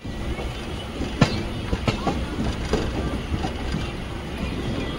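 Passenger train running on the track: a steady rumble with irregular clattering knocks of wheels over rail joints, the sharpest about a second in.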